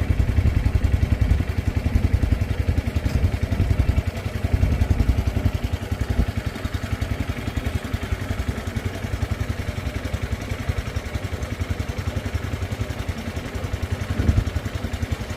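Small boat engine running steadily with a rapid low chugging pulse.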